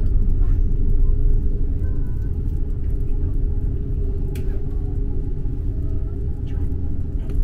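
Steady low rumble of a Trenitalia double-decker train running along the track, heard inside the carriage, with a single brief click about four seconds in.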